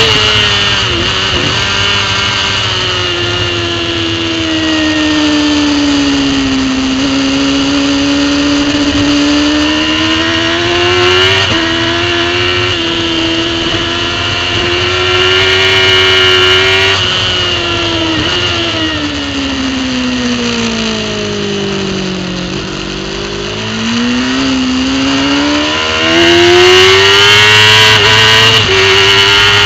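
On-board sound of a racing superbike's engine at speed, its pitch swinging with throttle and gear changes. The engine note sinks gradually and then climbs with a few sudden steps. About two-thirds of the way in it drops to its lowest, as if through a slow corner, then rises again and runs louder near the end under hard acceleration.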